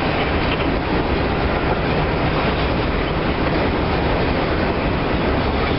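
Freight train of covered hopper cars rolling past at close range: a steady, loud rumble of steel wheels on the rails.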